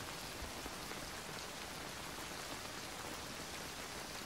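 Faint, steady rain sound with no change.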